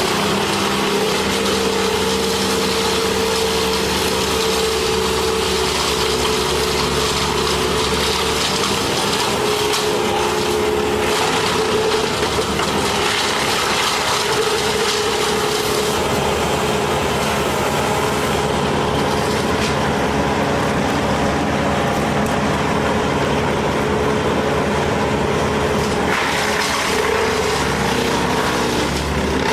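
An engine running steadily at a constant speed, its pitch holding with small shifts.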